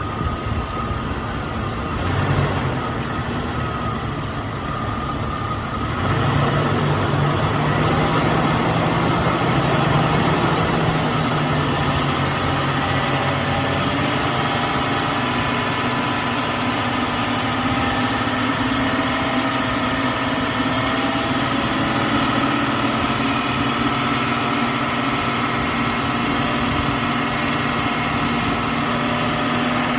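A 2000 Jeep Cherokee XJ's engine idling as it warms up while air is bled from its coolant system. It grows louder about six seconds in and then runs steadily.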